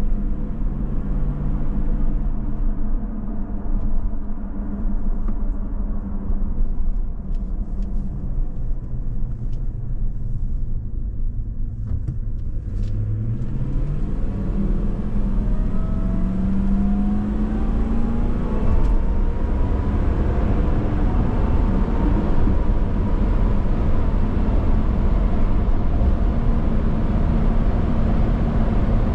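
Supercharged Toyota Land Cruiser V8 on the move. The engine first runs steadily, then from about twelve seconds in it accelerates, its note rising together with a thin higher whine. After that comes a steady, louder spread of engine and road noise at speed.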